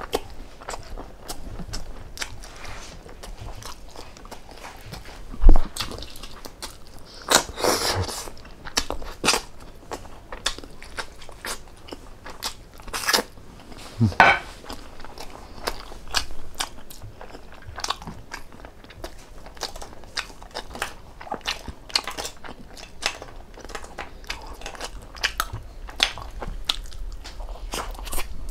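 A person chewing and biting food, with crunching and many quick mouth clicks, louder crunches around eight and fourteen seconds in. One loud thump about five seconds in.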